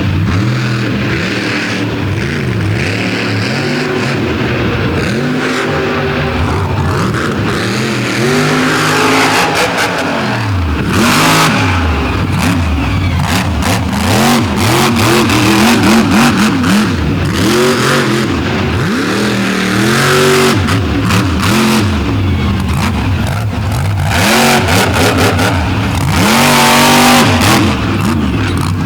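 Monster truck engine revved hard over and over during a freestyle run, its pitch climbing and dropping with each burst of throttle. Several loud noisy crashes break in, about a third of the way in, past the middle and near the end, as the truck slams down.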